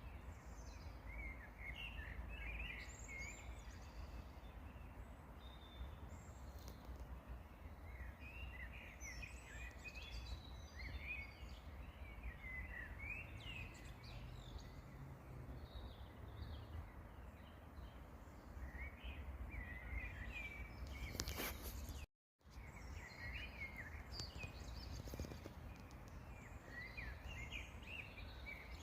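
Small songbirds twittering in short chirping phrases over a steady low rumble of background noise. The sound cuts out completely for a moment about 22 seconds in.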